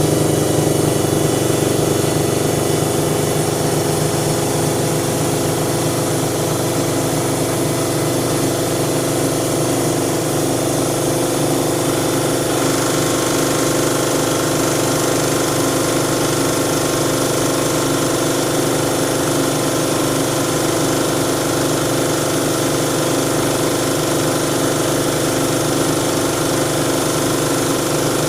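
Siemens Siwamat washing machine running with a steady motor hum and whine, holding one even pitch; the tone shifts slightly about twelve seconds in.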